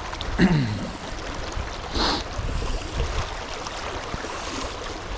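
Fast river current rushing steadily, with a brief splash about two seconds in.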